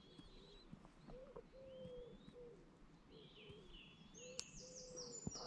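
Faint bird calls: a run of short, low, even notes repeating every half second or so, mixed with thin high chirps, and a single sharp click a little over four seconds in.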